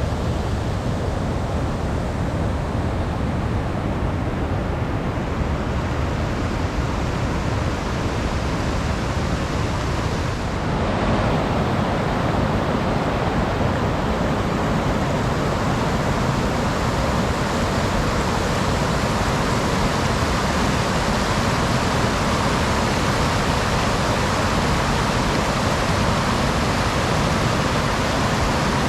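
Steady rushing roar of a large waterfall, a little louder and fuller from about eleven seconds in.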